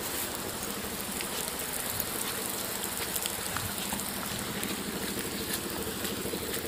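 Rain falling steadily, with many sharp drop ticks, over a motorbike engine idling at an even pitch.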